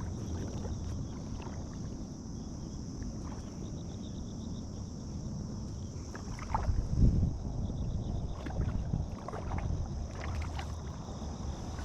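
Kayak on the water: steady water and hull noise as the boat is moved into position, with a few light knocks and a louder thump about seven seconds in.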